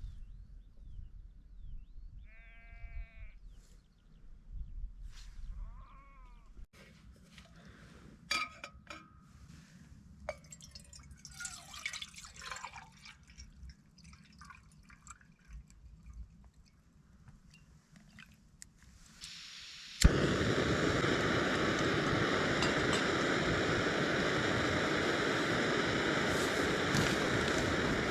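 Sheep bleating faintly, one clear quavering bleat about two seconds in and a shorter one a few seconds later, among scattered faint clicks. About twenty seconds in, a loud steady rushing noise cuts in suddenly and holds.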